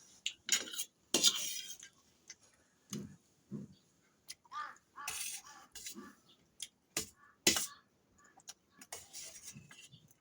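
Cutlery clinking and scraping against a plate of fried rice while eating, in a string of irregular sharp clicks and short scrapes.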